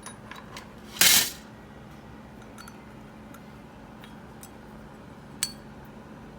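Small metal parts clinking as they are handled, with one short, loud burst of noise about a second in and a sharp clink near the end, over a faint steady hum.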